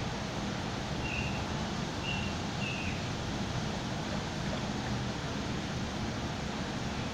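Automatic car wash running: a steady rush of water spray and machinery with a low rumble. Three short high chirps come about a second apart near the start.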